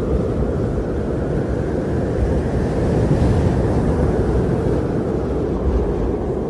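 Strong blizzard wind blowing steadily as a deep, low rumbling rush, swelling slightly about halfway through.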